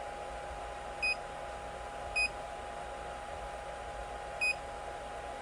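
3D printer's buzzer giving three short, high beeps at uneven intervals, over the steady hum of its running fans.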